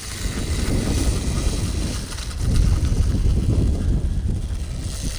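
Wind buffeting the microphone: a gusty low rumble that swells about halfway through, then eases.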